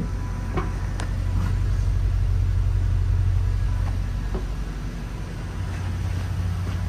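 2013 Porsche Panamera 4S's 4.8-litre V8 idling steadily after a cold start, a low even hum that eases slightly in level after about five seconds.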